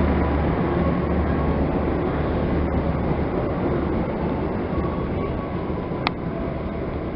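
Train running through the station: a steady rumble of wheels on the rails with a low hum, slowly fading, and a single sharp metallic clank about six seconds in.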